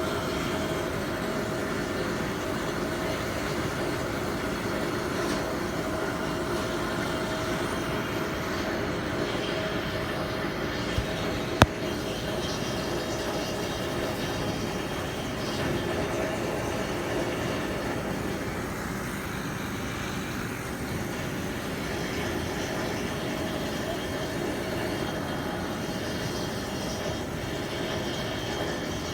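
Steady drone of a ship's engines and machinery, with a constant hum tone, and a single sharp click about twelve seconds in.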